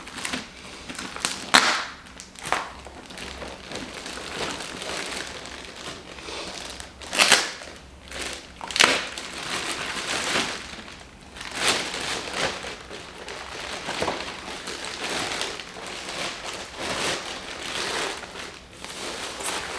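Packaging being unwrapped and handled during an unboxing: continuous crinkling and rustling, with several louder sharp crinkles scattered through.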